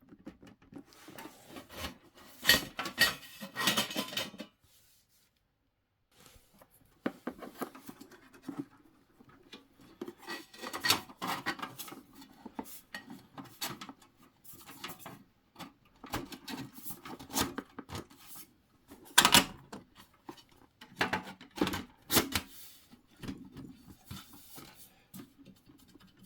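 Hands working on diesel heater parts during reassembly: irregular clicks, rubs and scrapes, with a few seconds of dead silence about five seconds in.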